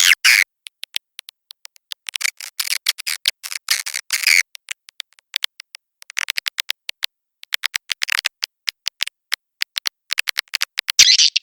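Edible-nest swiftlet calls on a swiftlet-house lure recording: rapid trains of dry clicks in uneven runs, with short bursts of twittering chirps between them.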